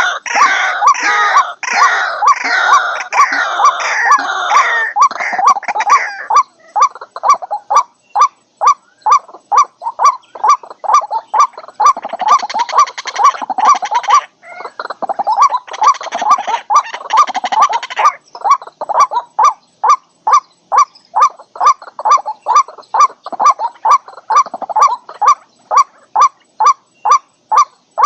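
White-breasted waterhen calling: a long series of monotonous, evenly repeated notes about twice a second, broken by bursts of harsher, jumbled croaking in the opening seconds and twice more around the middle.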